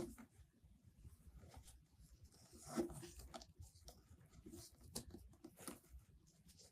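Faint rustling and crinkling of wired ribbon being looped and pinched into a bow, with a louder crinkle about three seconds in.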